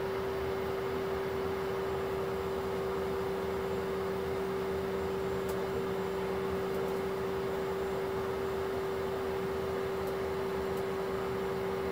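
Steady cabin noise inside a CRJ-900 regional jet: an even rush of air under a constant droning tone that holds one pitch throughout.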